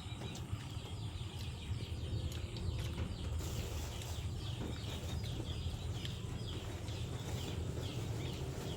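Small birds chirping repeatedly in short, falling chirps, more of them from about three seconds in, over a steady low rumble.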